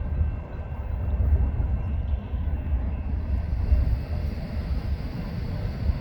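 Steady low rumble of an approaching Norfolk Southern freight train's diesel locomotives, heard before the train comes into view, with faint steady high tones above it.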